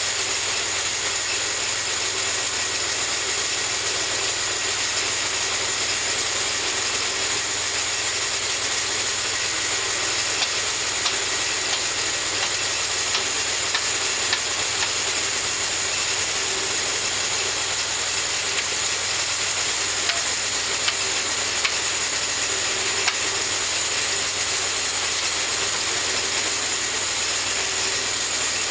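Homemade bandsaw mill running steadily, its blade sawing through a cherry log.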